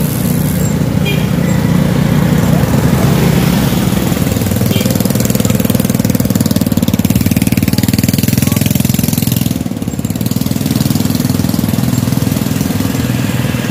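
Small motorcycle engine running steadily at low speed close by, a dense low pulsing throb that eases briefly about ten seconds in.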